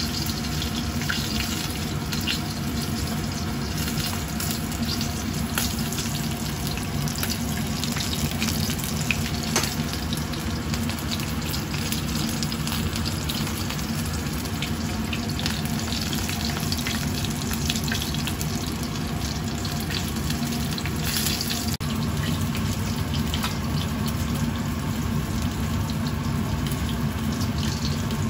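A whole chicken frying in hot oil in a wok: steady sizzling with scattered pops and crackles.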